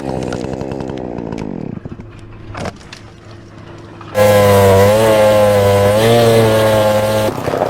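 Two-stroke chainsaw: its engine note falls away over the first couple of seconds, then comes a quieter lull with a few sharp knocks. About four seconds in it is revved high and held steady, with a slight waver, for about three seconds before cutting off.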